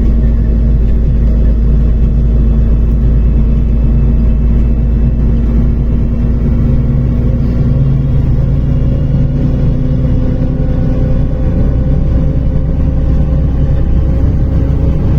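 Cabin sound of a MAZ-105 articulated diesel city bus under way: a steady, loud rumble of engine and road noise. The engine tones shift a little in pitch past the middle.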